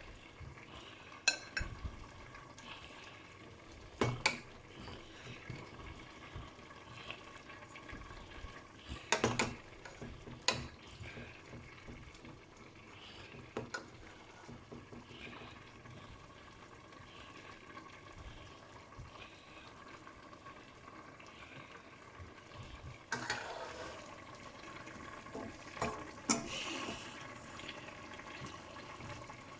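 Dishes and cutlery clinking now and then in a kitchen. A tap starts running about three-quarters of the way through.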